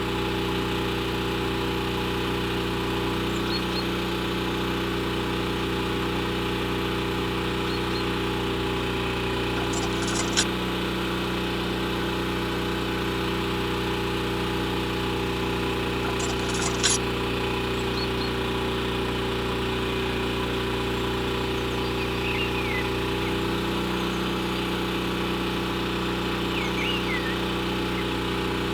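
A small motor running steadily with an even hum, broken by two sharp clicks, about ten and seventeen seconds in.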